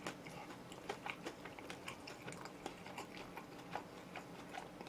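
A person chewing oven-roasted chicken close to the microphone: quiet, irregular small clicks of chewing.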